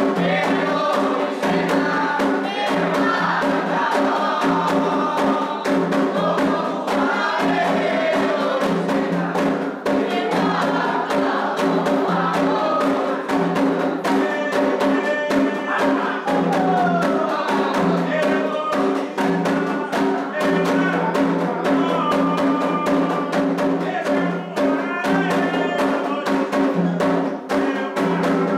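Candomblé toque for Omolu: atabaque drums beat a fast, continuous rhythm while a group of voices sings a sacred chant over it.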